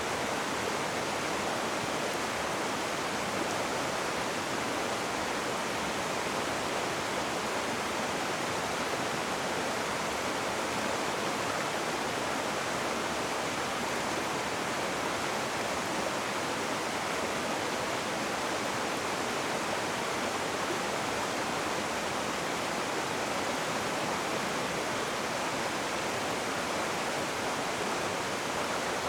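Rushing river water: a steady, even rush with no breaks or separate splashes.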